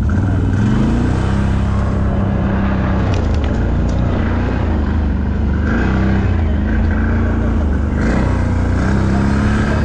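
ATV engine running steadily, its revs rising briefly in the first second and then holding.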